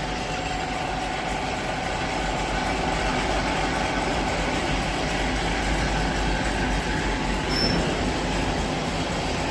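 Metal lathe running while its cutting tool turns a steel die: a steady machine noise with a faint high whine throughout.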